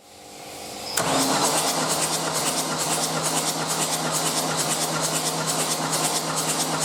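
Opel Z13DTJ 1.3 CDTI four-cylinder common-rail turbodiesel being started: it catches suddenly about a second in and settles straight into a steady idle with an even diesel clatter.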